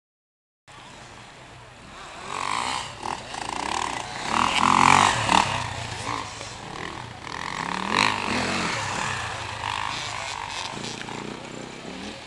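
Motocross bikes racing past, engines revving up and down between gear changes. The loudest pass comes about five seconds in and another about eight seconds in. The sound starts after a short cut to dead silence.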